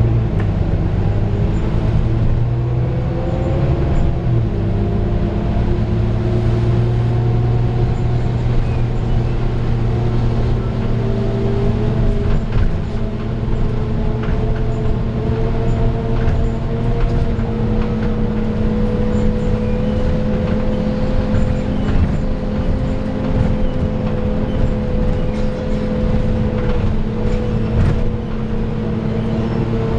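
Volvo B9TL double-decker bus's six-cylinder diesel engine running as the bus drives, heard from aboard. A steady whine rises slowly over the engine hum: the bus's cooling fan, whose drone sounds like a hoover.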